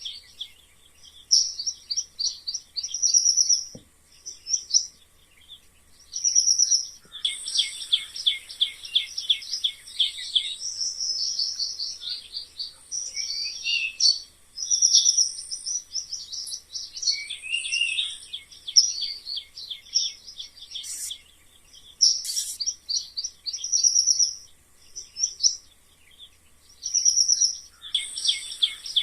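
Mice squeaking: rapid trains of short, high-pitched squeaks in bursts, with brief pauses between clusters and an occasional sliding squeak.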